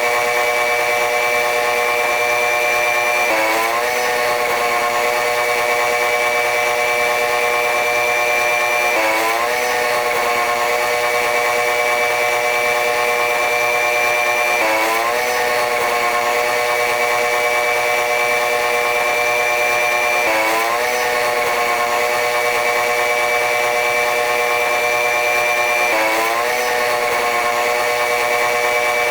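Running sound of a TRA R138 diesel-electric locomotive hauling the train, played back at time-lapse speed so that it comes out as a steady high hum with a whine. About every six seconds the pitch briefly dips and glides back up.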